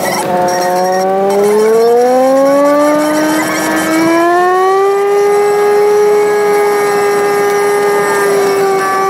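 Sped-up engine note of a Toyota car, a whine that rises smoothly in pitch over the first four or five seconds as it accelerates, then holds steady.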